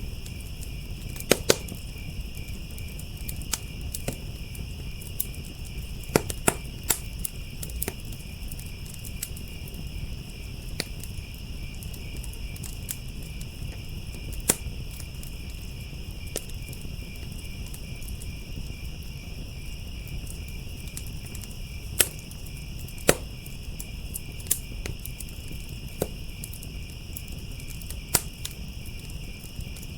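Firepit crackling with irregular sharp pops, a few much louder than the rest, over steady chirping crickets and a low fire rumble.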